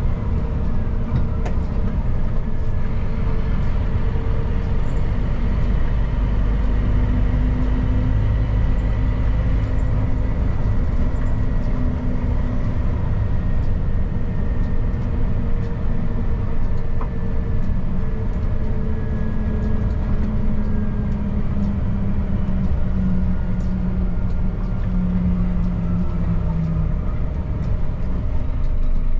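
Scania P310 truck's diesel engine running under way, with road and tyre noise. It is a steady, loud rumble whose engine note drifts slowly up and down.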